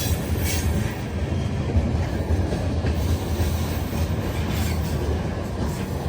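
Freight train rolling past: a steady low rumble of wheels on rails, with a few faint clicks from the wheels.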